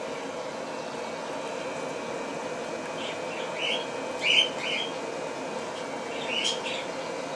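A few short, high bird chirps in two small clusters, the loudest about four seconds in and another near the end, over a steady background hum.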